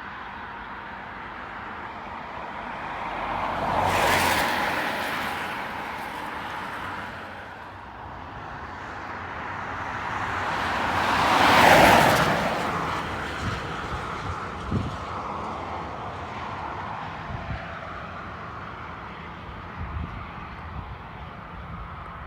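Two vehicles passing by, a smaller pass about four seconds in and a louder one near the middle, each swelling and fading over a few seconds above steady outdoor background noise.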